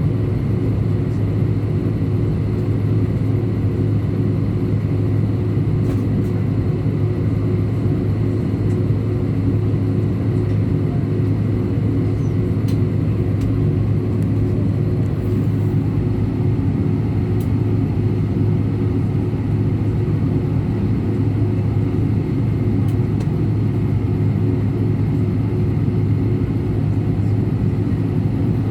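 Steady low drone of an Airbus A319's jet engines and airflow heard inside the passenger cabin, level and unchanging throughout.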